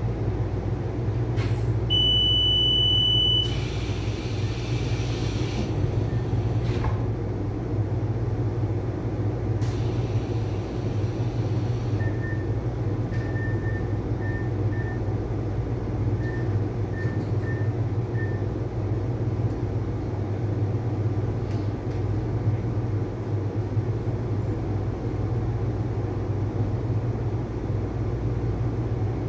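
Onboard a Taiwan Railway commuter electric multiple unit (EMU) running between stations, heard at the passenger door: a steady low rumble of the train in motion. A single high beep lasts about a second and a half a couple of seconds in, and faint short pips sound around the middle.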